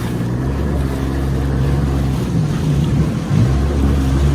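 Motorized watercraft engine running steadily, its pitch dipping briefly and rising again about three seconds in.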